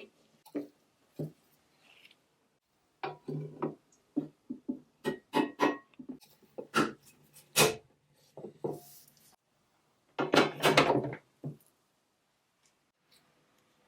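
Hand work on metal and plastic toy parts: a string of short clicks and knocks, some with a brief ringing tone, with a dense rattle lasting about a second around ten seconds in.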